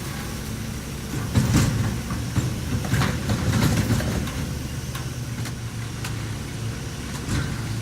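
Garbage truck engine running, with a steady low hum that swells louder twice and a few sharp knocks or clanks over it.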